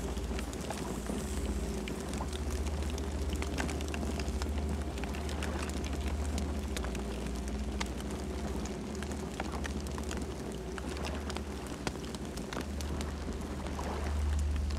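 Campfire burning, with many small sharp crackles and pops scattered over a low steady rumble of the flames.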